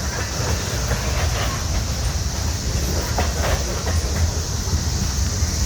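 Freight train cars rolling by: a steady low rumble of wheels on rail with scattered clacks over the rail joints.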